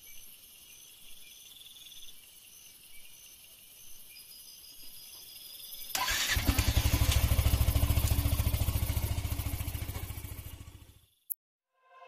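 Motorcycle engine started about six seconds in, catching at once and idling with a rapid, even putter, then cutting off abruptly near the end.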